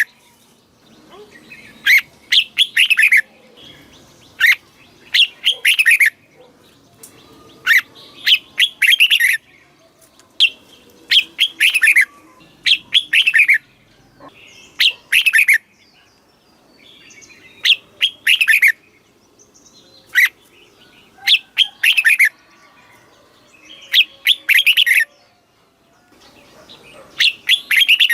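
Red-whiskered bulbul singing. Short phrases of a few quick notes that slur downward repeat about every one to two seconds.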